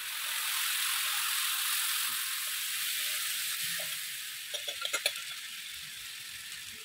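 Chicken leg pieces sizzling in hot oil on a tawa as a yogurt-and-cream marinade is added. The sizzle swells just after the start, holds, then slowly dies down. A few light clicks of a utensil against the pan come about five seconds in.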